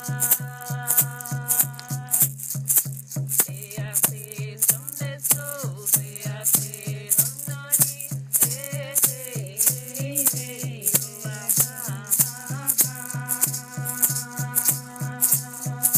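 A Yawanawá chant sung over a shaker rattle that keeps a steady beat of about three strokes a second, with a low thud under each stroke. The voice holds long notes at first, then moves through gliding phrases in the middle before settling on held notes again.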